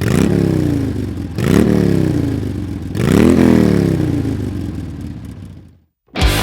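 Motorcycle engine revved three times, each rev climbing quickly in pitch and then winding down slowly, the sound fading out near the end.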